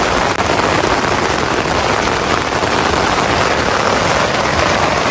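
Heavy rain pelting a tent, a dense, steady hiss with no letup.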